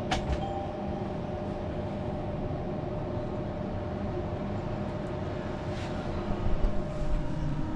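Steady mechanical hum with a couple of faint steady tones, and a short click right at the start.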